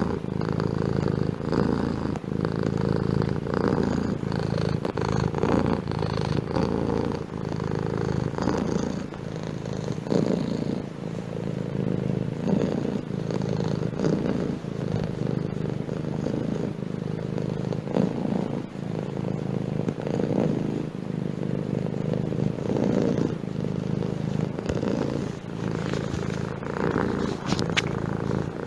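Domestic cat purring continuously, a low rhythmic rumble.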